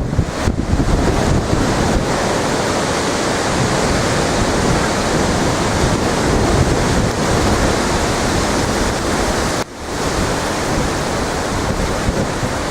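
Strong hurricane wind blowing hard and buffeting the microphone, a steady loud rush with a momentary drop about three-quarters of the way through.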